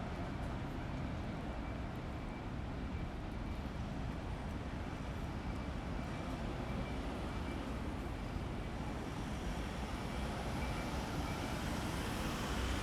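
City street noise: a steady rumble of traffic mixed with strong wind buffeting the microphone. A higher hiss swells near the end.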